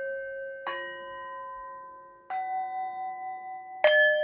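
Meditation music of struck bells ringing: three strikes about a second and a half apart, each at a different pitch and ringing on while the earlier tones fade. The last strike, near the end, is the loudest.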